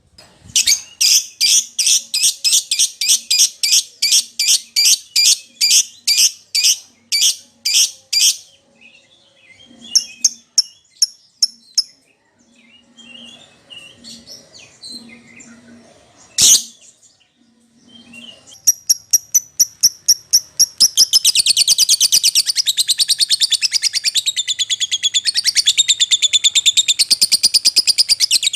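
Lovebird calling. A run of sharp, high chirps comes about three a second, then a few scattered calls and one loud call. From about two-thirds in the chirps speed up into a fast, continuous high chatter.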